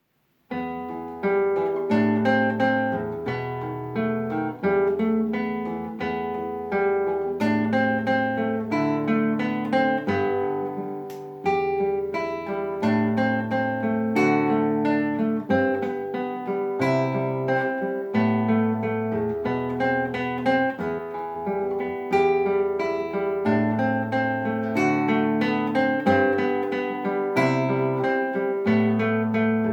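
Solo acoustic guitar playing an etude: a steady run of plucked notes over held bass notes.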